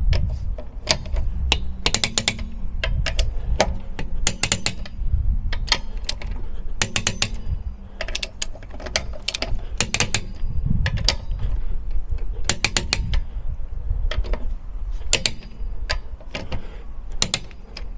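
Ratchet of a torque wrench clicking in repeated runs as wheel bolts are tightened to 120 newton metres.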